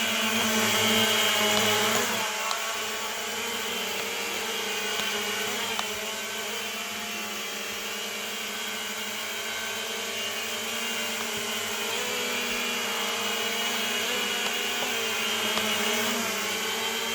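Small toy quadcopter's electric motors and propellers whirring steadily in flight, with a whining buzz that is louder for the first two seconds and then holds even.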